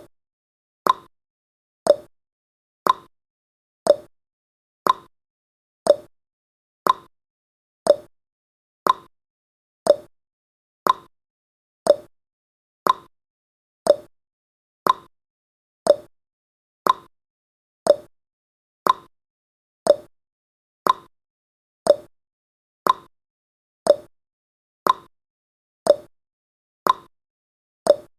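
Countdown timer's ticking sound effect: short, sharp ticks, one each second, steady and evenly spaced.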